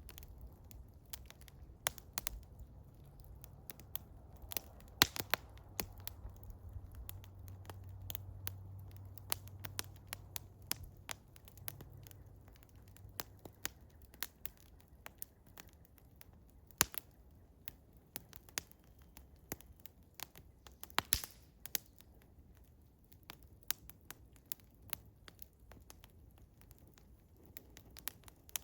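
Wood fire of eastern hemlock crackling, with irregular sharp pops and snaps of varying loudness.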